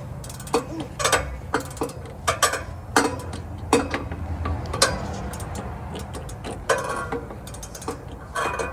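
Hand tools working on a rusty exhaust system under an SUV: a dozen or so sharp, irregular metal clicks and clanks, over a steady low hum.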